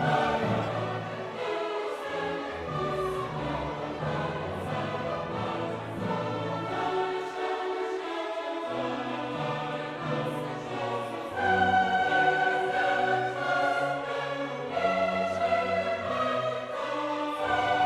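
Choral and orchestral classical music: a choir singing held notes over orchestra, the chords changing every second or two and swelling louder about two-thirds of the way through.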